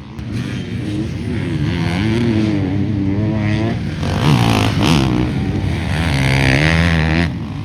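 Motocross dirt bike engines revving hard and shifting, pitch rising and falling as they ride past, with more than one bike overlapping in the middle.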